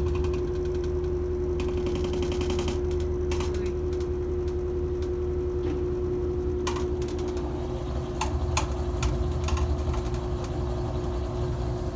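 Top-loading impeller washing machine spinning: a steady motor whine over a low rumble, with scattered rattling clicks and a short burst of rapid ticking near the start as the slightly unbalanced load shakes the machine.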